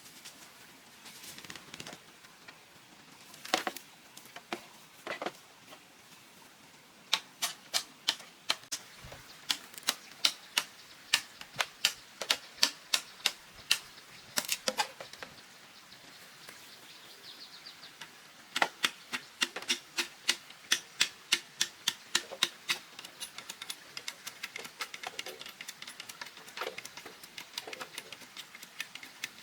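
A hand tool striking bamboo over and over in steady sharp knocks, about two to three a second, starting about seven seconds in. The knocks pause briefly just past halfway, then resume and grow lighter toward the end.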